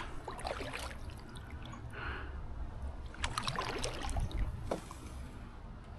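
Paddle strokes beside a solo canoe: the blade dipping and splashing, with water trickling off it, and a handful of short splashes about halfway through.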